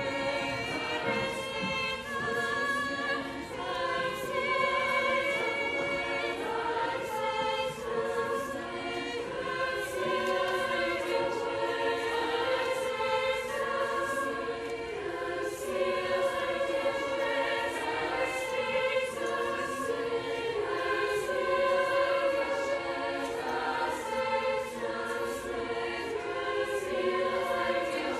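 A soprano-alto choir of treble voices singing a choral piece, with several sung notes held together and moving in harmony.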